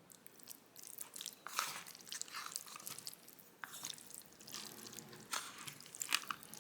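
Someone biting and chewing crispy fried food, with irregular crunches and crackles.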